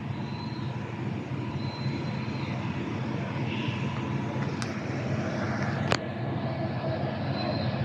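A large vehicle engine running steadily with a low, even hum. Two sharp clicks come about four and a half and six seconds in.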